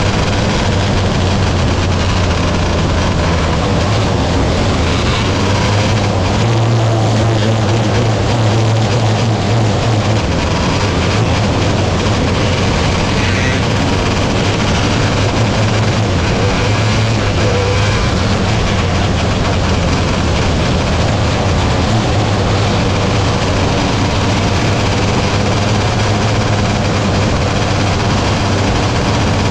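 Sprint cars racing on a dirt track: a loud, steady engine drone whose pitch rises for a few seconds about seven seconds in, then settles back.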